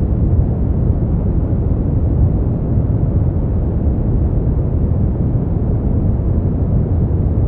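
Steady brown noise: an even, deep rumbling hiss, strongest in the bass and thinning out toward the highs, without change.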